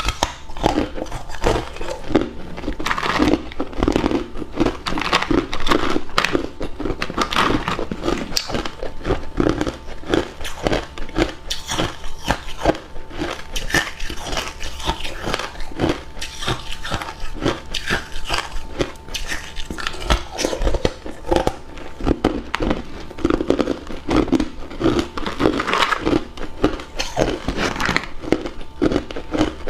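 A person biting and chewing hard ice cubes close to the microphone: dense, continuous crunching and cracking, several crunches a second without a pause.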